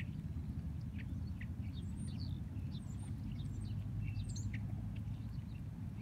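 Birds chirping in a tree: many short, high chirps and twitters, busiest in the middle, over a steady low rumble.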